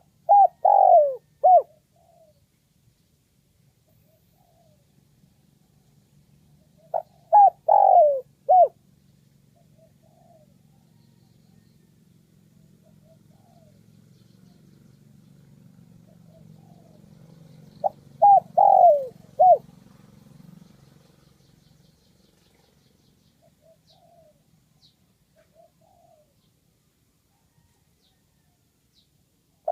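Spotted dove cooing: three short phrases of about four notes each, near the start, about seven seconds in and about eighteen seconds in.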